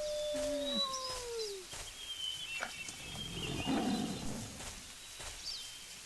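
Wild animal calls: a long drawn-out call that drops in pitch and fades about a second and a half in, with a shorter, lower call beneath it. High short chirps go on throughout, and a rough, low rumbling sound comes around three and a half to four and a half seconds in.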